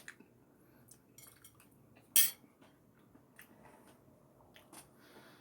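Eating utensil clinking and tapping against a dinner plate, with light scattered clicks and one sharp, loud clink about two seconds in.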